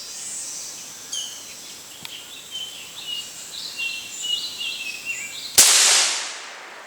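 Birds calling with chirps and short whistles over a high insect drone, then about five and a half seconds in a single sharp gunshot, the loudest thing by far, that dies away over most of a second.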